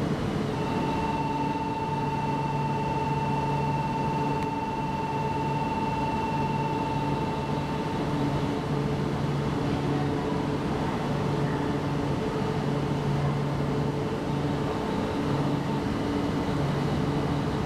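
Steady running noise of an E4 series double-decker Shinkansen train, with a constant high tone for about the first eight seconds over a low hum that comes and goes.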